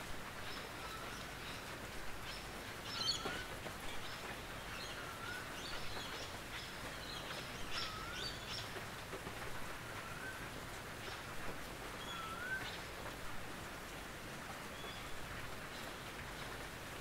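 Steady rain on a tin roof, a constant hiss with scattered sharp drip ticks. A bird calls over it, a short curving note repeated every couple of seconds, with higher chirps now and then.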